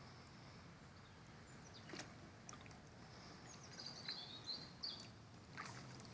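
Quiet river ambience: a small bird chirps a few times in quick succession near the middle, with a couple of faint water drips.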